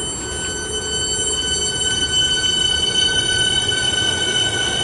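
Siemens electric suburban train pulling out of the station, a steady high whine over the rumble of the cars, growing a little louder after about a second.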